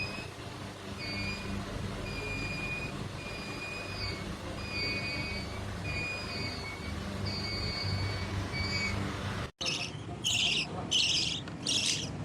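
A high, steady whistling tone in short broken stretches over a low rumble. It cuts off abruptly, and then a parrot screeches in loud harsh bursts, about two a second.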